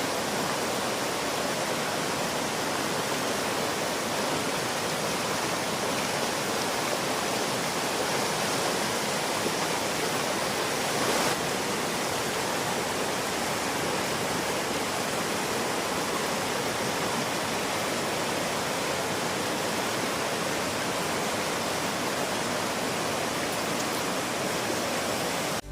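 River water rushing in a steady, even flow, the sound of a river running high after heavy rain.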